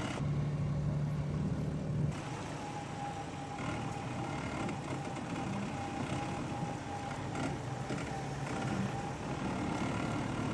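Jeep Grand Cherokee's engine running as the vehicle crawls over a sand mound. A steady low hum stops abruptly about two seconds in, leaving a rougher mixed noise.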